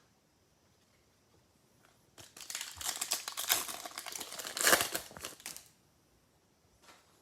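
A trading card pack wrapper crinkling and tearing open for about three seconds, starting about two seconds in.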